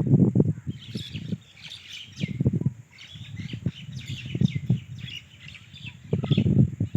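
Small birds chirping, mixed with repeated low thumps and rustling that come in clusters several times and are louder than the chirps.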